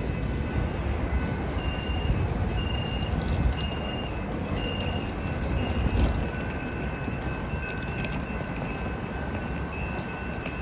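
Coaster commuter train rumbling steadily as it leaves the station, with a high electronic beep repeating about once a second for several seconds.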